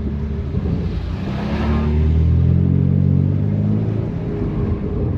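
BMW F80 M3 Competition's twin-turbo inline-six running at low revs while driving, its exhaust droning loudly through catless downpipes and an open valved exhaust. A brief rushing hiss rises and fades about a second and a half in.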